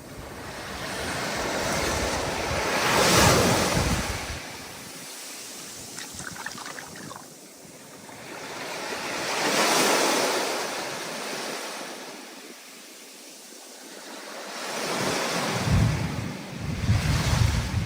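Storm surf: ocean waves breaking and washing in, three swells rising and falling about seven seconds apart, with wind rumbling on the microphone near the start and the end.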